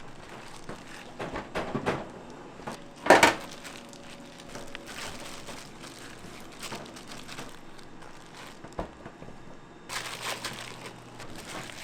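Kitchen food-prep handling noises: scattered knocks and crinkling rustles, with a louder clatter about three seconds in and a stretch of rustling near the end.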